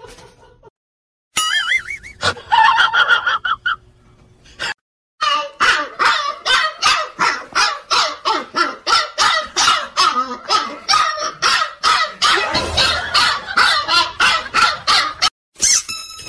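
A pet calling over and over in short, quick calls, about three a second, after a briefer wavering high call near the start.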